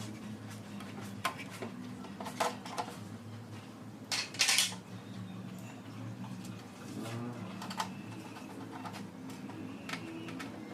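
Irregular small clicks and clinks of tools and metal parts being handled on a workbench, with a louder brief scrape about four seconds in.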